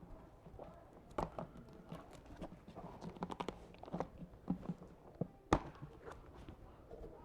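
Scattered light clicks and knocks of people moving about in a small room, with one sharper knock about five and a half seconds in.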